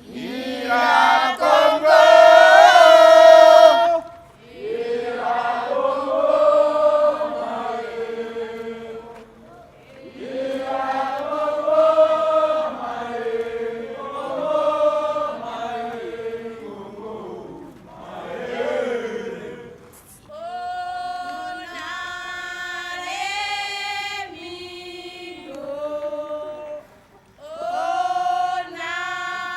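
A group of voices singing together in chorus, in phrases of held notes separated by short pauses, loudest in the first few seconds.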